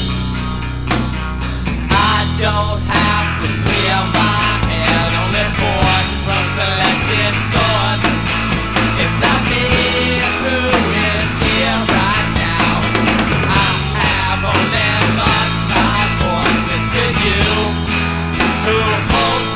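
Loud rock music recording: a full band with guitars, playing without a break.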